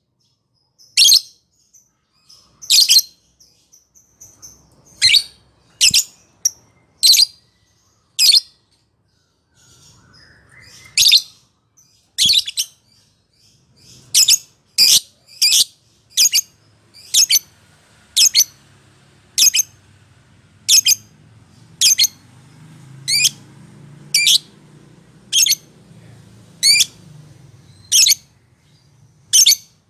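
Lovebird giving short, shrill single calls, about one a second, with a brief pause near the middle. A faint low hum sits under the calls in the second half.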